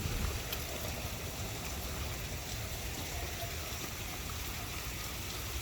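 Steady rain with water running and trickling.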